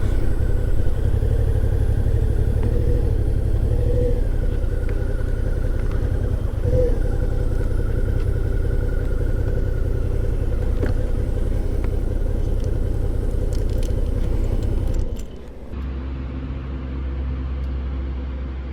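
Suzuki V-Strom 650's V-twin engine running steadily while riding at low speed. About 15 seconds in, the sound changes abruptly and becomes quieter and duller.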